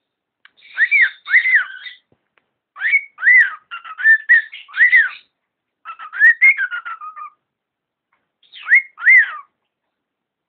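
Pet cockatiel whistling its song: arched notes that rise and fall in pitch, in four short phrases with gaps between them.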